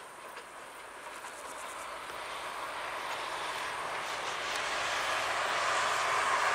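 Distant narrow-gauge diesel-hauled passenger train running along the line, a steady rushing noise that grows louder. Faint clicks of wheels over rail joints are heard in the first couple of seconds.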